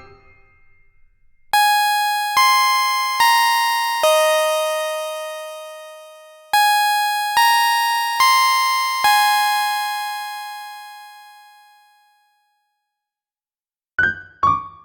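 Alarm melody on a bell-like electric piano tone: two phrases of four slow, ringing notes that fade away. After about two seconds of silence, a quick run of notes starts near the end.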